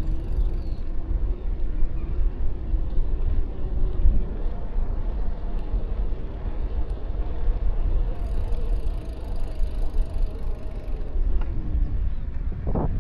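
City street traffic heard from a moving bicycle: motor engines passing, under a heavy, steady wind rumble on the microphone.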